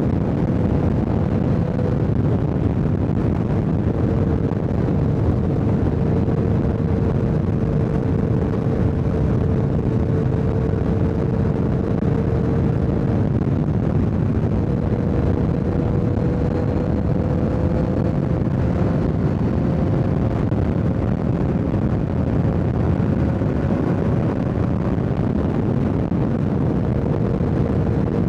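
Sport motorcycle cruising at steady highway speed: a steady engine note under a constant rush of wind and road noise on the rider's microphone.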